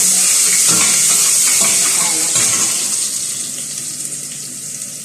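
Ginger sizzling in hot cooking oil in a pan. The sizzle jumps up loud as it goes in and slowly dies down.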